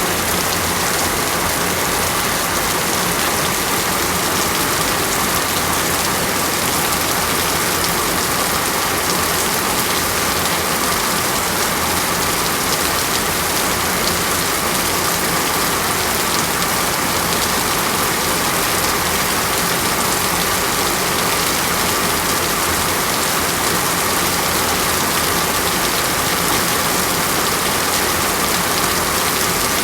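Steady, heavy rain falling on a surface, an even hiss with no breaks.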